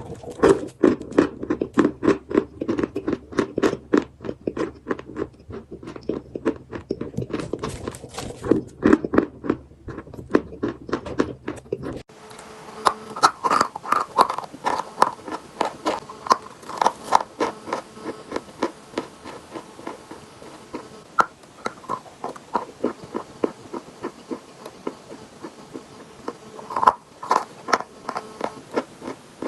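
Chalk being bitten and chewed close to the microphone: rapid, sharp crunches, several a second. About twelve seconds in, the sound cuts abruptly to another stretch of crunching with a brighter, crisper tone.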